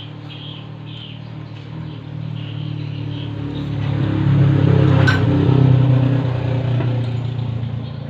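An engine running steadily at an even pitch. It grows louder about halfway through, with a sharp click near its peak, then eases off again.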